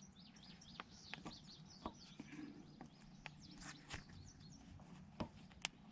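Faint birdsong: small birds chirping over and over, with several sharp clicks scattered through.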